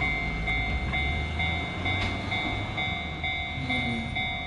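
Enoden electric train running, with a low rumble under a high ringing tone that pulses rapidly and evenly.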